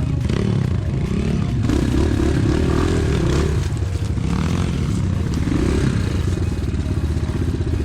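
Enduro pit bike engine heard from on board, its pitch rising and falling repeatedly as the throttle is worked over the rough forest trail, with the bike clattering over the ground.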